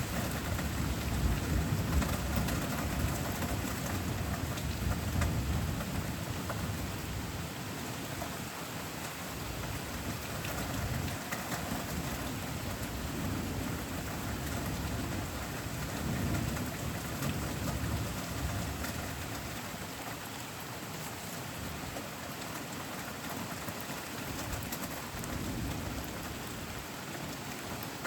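Steady rain falling, with a low rumble of thunder over the first several seconds that dies away, and fainter rumbles later on.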